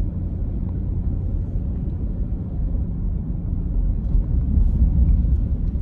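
Steady low rumble of a moving vehicle heard from inside its cabin: engine and tyres on the road, swelling slightly near the end.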